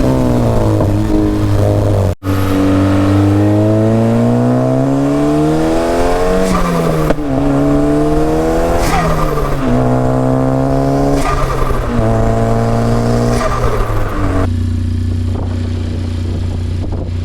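Ariel Atom 4's turbocharged four-cylinder engine breathing through a titanium exhaust, accelerating hard. Its pitch climbs through each gear and falls back at four or five upshifts, then holds a steady note near the end.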